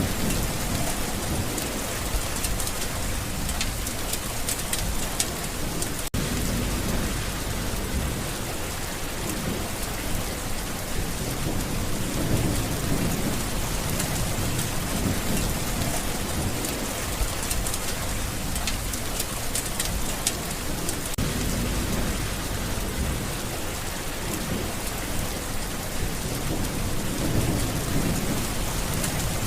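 Steady heavy rain with many fine drop ticks, and low rumbles of thunder swelling now and then.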